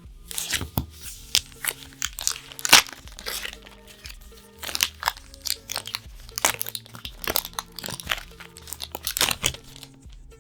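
Magic: The Gathering booster pack's foil wrapper being torn open and crinkled: a dense run of sharp crackles and tearing. Background music with held tones plays underneath.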